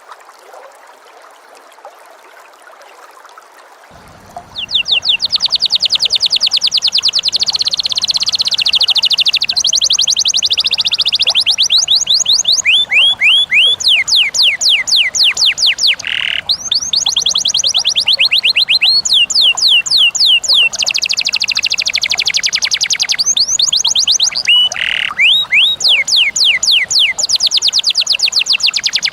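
Cage songbird in a fast, unbroken trill of sharp, high repeated notes, many to the second, changing pace and pitch here and there. It starts about four and a half seconds in and carries on to the end.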